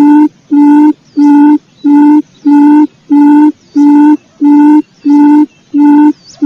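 Quail lure call: a low, steady hooting note repeated evenly, about one and a half times a second.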